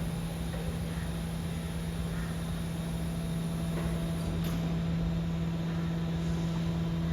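BYD electric garbage truck humming steadily, one low tone with fainter overtones, with a faint click about four and a half seconds in.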